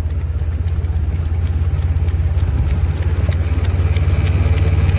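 A motor vehicle's engine running steadily with a low rumble, growing slightly louder.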